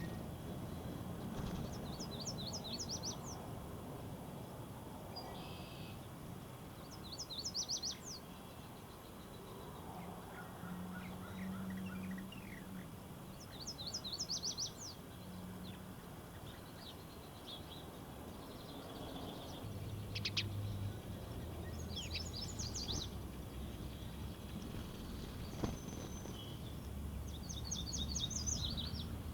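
Small songbirds singing outdoors: one repeats a short burst of rapid high notes about every five to six seconds, and another gives a lower trill once, over a steady low background rumble.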